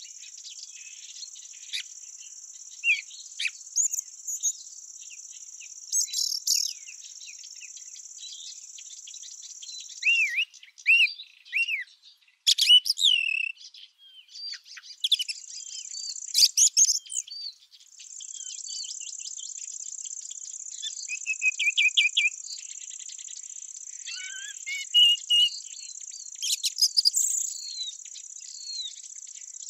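Summer field ambience: a steady, high-pitched insect chorus with many birds chirping and calling over it. The insect sound stops about ten seconds in, returns a few seconds later, and drops out briefly again before resuming.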